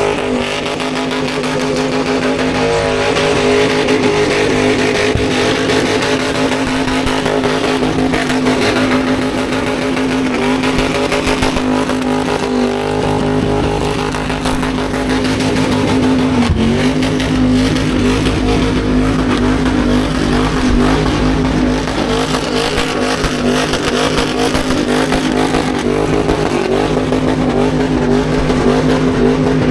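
Car engine held at steady high revs during a burnout, over the noisy squeal of spinning tyres on the pad, with a brief dip in revs around the middle.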